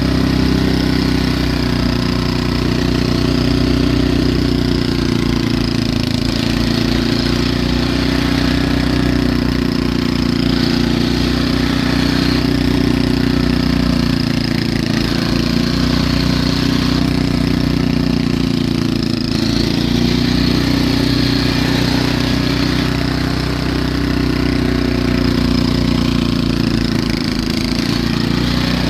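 Snowblower engine running steadily, its pitch wavering a little as it works.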